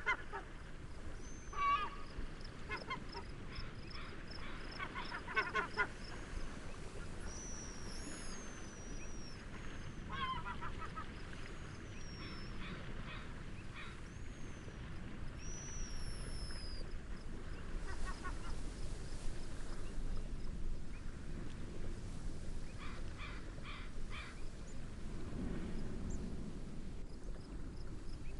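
Seaside nature ambience: birds call in short honking bursts, with high falling whistles in the middle, over a fine steady cricket chirping and a low, even rush of wind and gentle waves.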